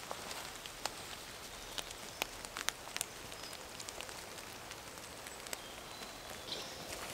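Rain falling in a forest: a steady hiss with scattered sharp ticks of single drops at irregular moments.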